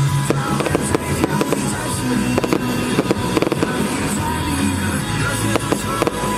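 Fireworks going off in many quick bangs and crackles over loud music.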